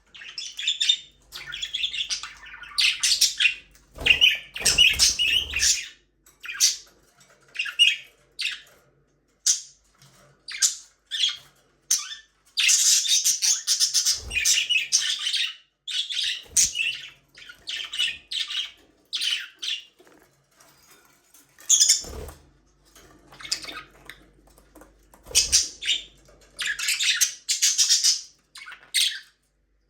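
Budgerigars chirping and squawking in quick, irregular bursts of short high-pitched calls, with a few soft low thumps among them.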